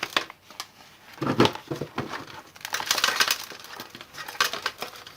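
Dry potting soil and the roots of a pomegranate bonsai rustling and crackling as they are pulled apart by hand, with scattered small clicks.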